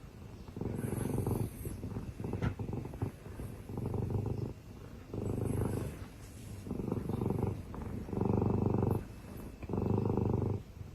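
Domestic cat purring close up, in steady rhythmic cycles about once a second as it breathes in and out.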